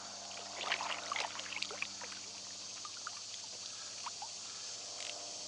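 Light splashing and trickling water at a kayak's side while a hooked fish is played, with scattered small splashes mostly in the first two seconds, over a steady chorus of insects.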